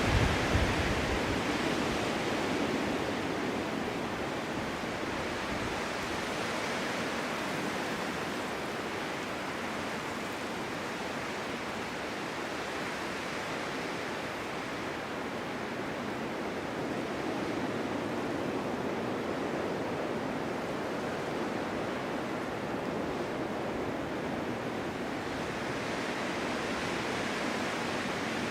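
Snowstorm wind blowing in a steady rush, with a strong gust and low rumble right at the start, then swelling and easing slowly.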